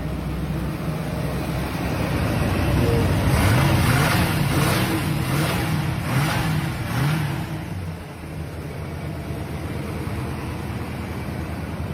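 Chevrolet 305 small-block V8 idling, then revved about four times in quick succession before dropping back to a steady idle.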